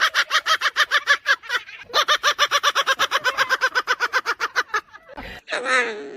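A parrot giving a fast, cackling run of repeated calls, about nine notes a second, in two long bouts with a short break between, then a brief single call near the end.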